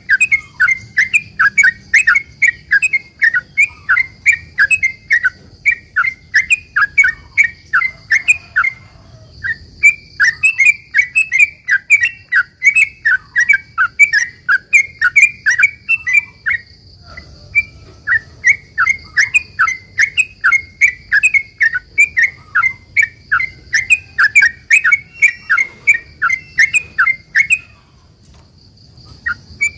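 Yellow-vented bulbul (trucukan) singing a long, rapid "ropel" run of short chirping notes, about three to four a second, in long phrases with brief breaks. A faint steady high hiss runs underneath.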